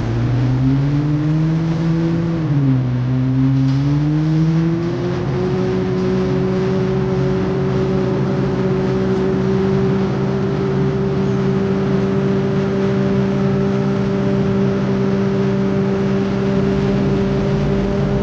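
Heavy diesel engine of a road-construction machine running under load. Its revs waver and dip about two and a half seconds in, then climb and hold steady.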